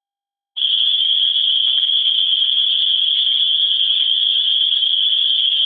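Loud chorus of cicadas: a steady, high-pitched buzzing drone that starts about half a second in and holds without a break.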